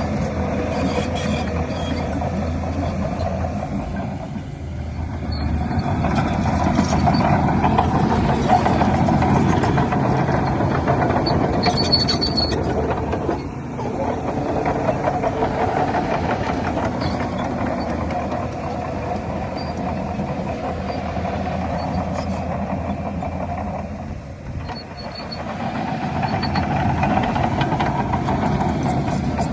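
Diesel engine of a Shantui DH17C3 bulldozer running steadily under load, with brief drops in level about four, thirteen and twenty-four seconds in.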